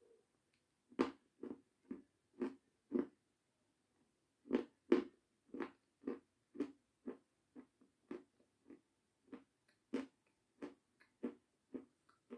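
Close-miked chewing of a mouthful of meringue dipped in cream: a steady run of short chewing sounds, about two a second, with a brief pause about three seconds in.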